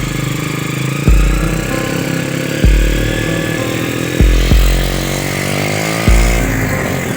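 Truck engine running, its pitch rising steadily in the second half as it revs up. A deep booming thump repeats about every one and a half seconds over it.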